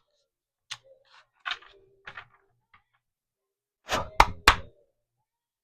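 A large tarot deck being handled: a few light taps and card noises, then a cluster of sharp knocks about four seconds in, two of them loud.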